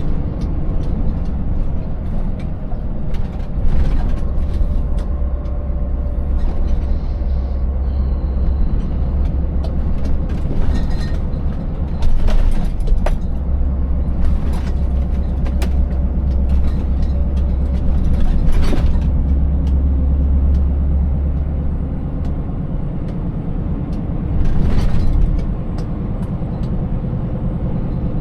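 Scania 590S V8 truck engine running with a steady, deep drone, broken by several short knocks and clatters spread through the stretch.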